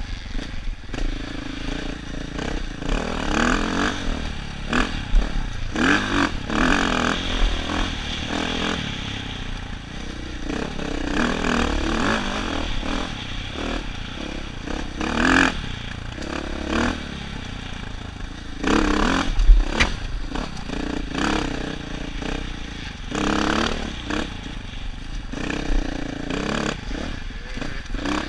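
Dirt bike engine revving up and falling back again and again as the throttle is worked along a rough single-track trail, with frequent clattering knocks and scrapes from the bike over rocks and brush; one hard knock is loudest near the two-thirds point.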